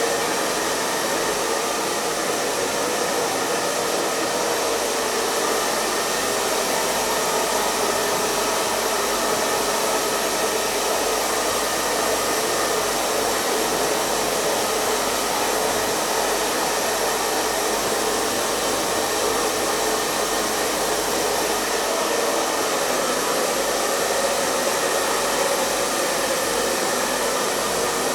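Hair dryer running steadily: an even, unchanging rush of blown air with a faint motor hum under it.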